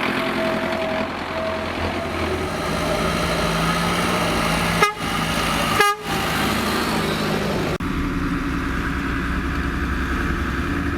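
Vehicle engines running steadily, with horn toots sounding over them. The sound breaks off sharply a few times, about halfway through and again near 8 seconds.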